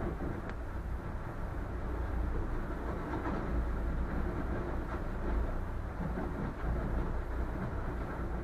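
A boat's engine running with a steady low rumble, under a constant crunching and scraping of ice breaking against the hull.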